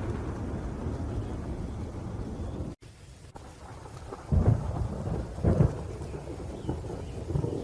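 Steady rain with low rolling thunder. The rumble cuts out abruptly a little under three seconds in, then the rain returns more quietly and two loud thunderclaps follow about a second apart.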